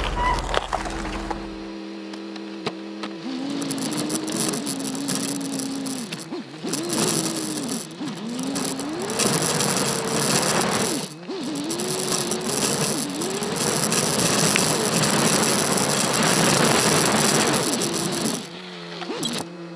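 Turbocharged Subaru Forester's engine pulling along a rough dirt trail, its pitch rising and falling repeatedly as the throttle works over the bumps. Heard through the roof-mounted GoPro, with constant rattling and vibration from the shaky roof basket mount.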